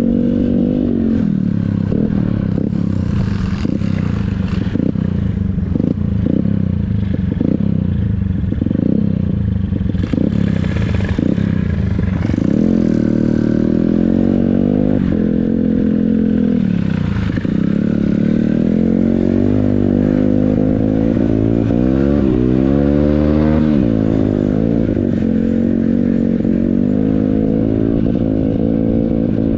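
Yamaha XTZ125 trail motorcycle's single-cylinder four-stroke engine running under load on a trail, its pitch repeatedly rising and falling as the throttle is opened and eased off. Over roughly the first ten seconds, short knocks and rattles come through with it.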